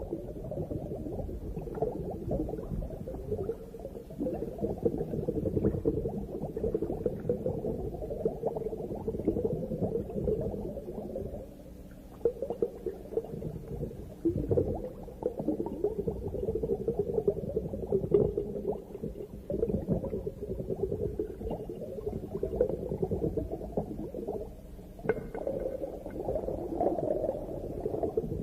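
Underwater reef ambience: continuous muffled bubbling and gurgling water, mostly low-pitched, with small crackles throughout.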